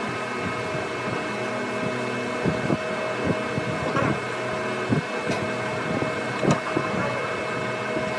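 A workshop machine's electric motor running with a steady hum, with a few light knocks scattered through it.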